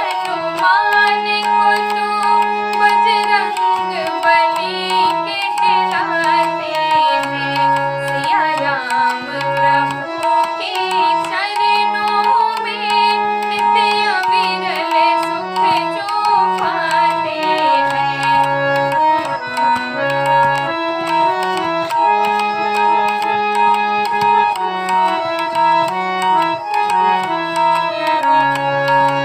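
Hindi devotional bhajan music: a tabla rhythm under sustained keyboard chords, a repeating bass line and a wavering melody.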